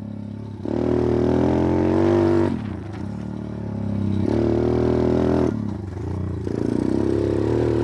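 Pit bike's small single-cylinder four-stroke engine being ridden hard, the throttle opening and closing. It pulls up loud about a second in, drops back at about two and a half seconds, builds again, eases off near five and a half seconds, then picks up and holds.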